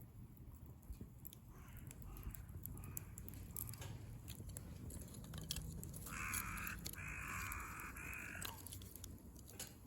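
Wood fire crackling with frequent sharp pops. A crow caws in the background, a fainter call about two seconds in and two louder, longer calls about six seconds in.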